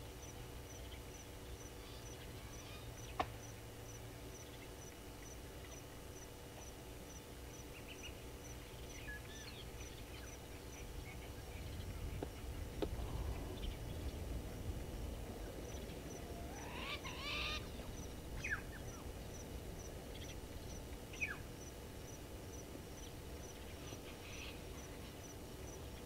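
Wild birds calling from the surrounding bush: scattered short calls, with a burst of rising chirps about two thirds of the way through.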